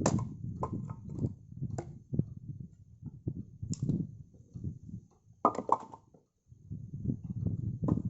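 Firewood being handled: irregular sharp knocks and clatter of wood pieces, the loudest pair about five and a half seconds in, over a low rumbling.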